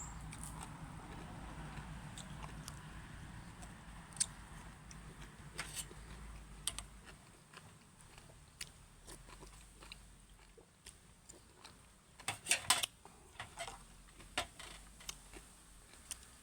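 A person eating noodle soup with fresh vegetables: close chewing and crunching with scattered short clicks, loudest in a quick cluster about twelve seconds in.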